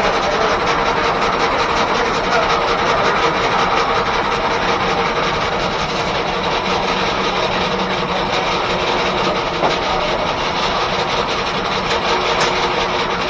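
1880s R.R. Howell left-hand sawmill running under steam-engine power: a steady mechanical noise with a constant hum, unbroken throughout.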